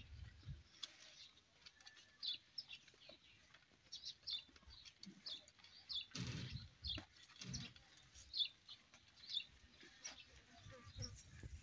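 Faint chirping of small birds, short high calls every half second or so. A few soft, low, noisy scuffs come in, the loudest about six seconds in.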